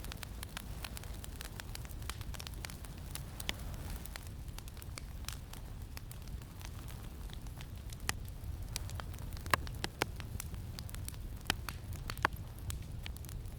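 Campfire crackling, with scattered sharp pops, a few louder ones near the end, over a steady low rumble of wind.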